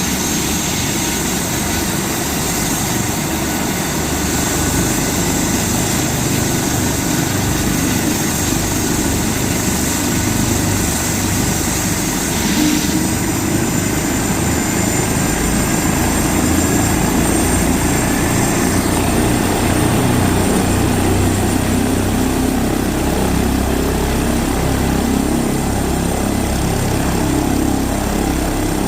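Airbus ACH145 helicopter running, its twin turboshaft engines whining steadily over the rotor's rumble. Midway the whine climbs slightly in pitch and the low rumble grows stronger, as the power comes up.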